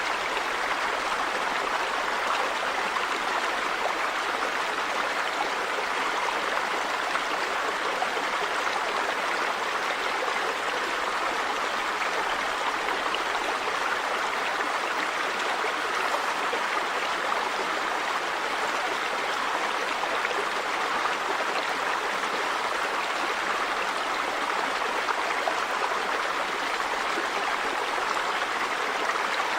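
River water running over stones: a steady, even rushing and babbling.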